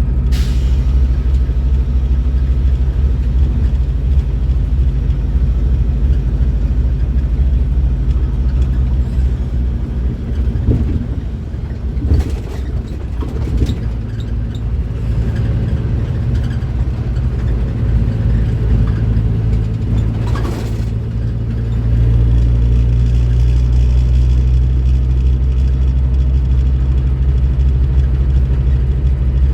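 Scania K310IB bus's five-cylinder diesel engine running with a steady low drone. It drops back and runs quieter and less evenly for a stretch in the middle, then pulls steadily and louder again from about 22 seconds in. A few brief sharp clicks or knocks cut through, one near the start and two in the quieter middle part.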